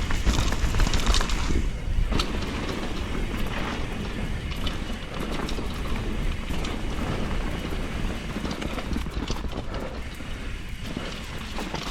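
Enduro mountain bike descending a wet, rooty, rocky trail: a steady rush of tyre and rolling noise broken by many quick knocks and rattles as the bike hits roots and rocks. It is loudest in the first couple of seconds.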